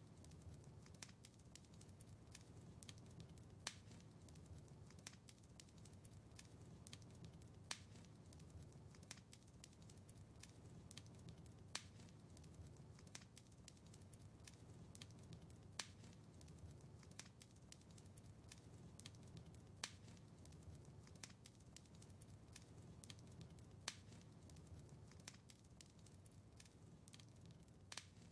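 Faint wood fire crackling in a fireplace: scattered small pops and snaps over a low, steady hiss. A sharper, louder snap comes at even intervals of about four seconds.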